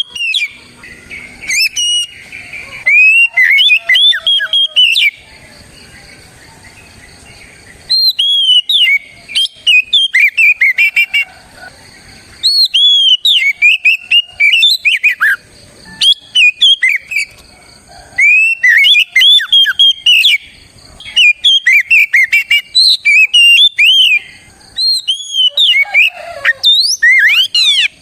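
Oriental magpie-robin (kacer) singing in full, loud song: bouts of fast, clear whistled phrases with rising and falling notes, broken by short pauses of one to three seconds.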